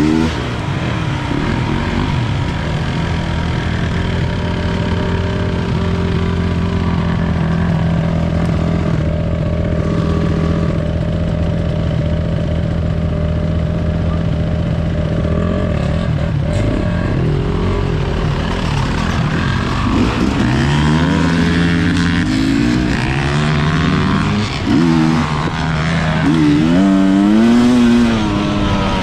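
Enduro dirt bike engine running under way: an even note for the first half, then revving up and down repeatedly as the throttle is opened and closed.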